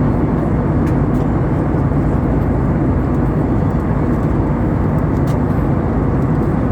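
Steady rumble and hiss of an Airbus A320-214's passenger cabin: its CFM56 engines and the airflow past the fuselage, heard from inside.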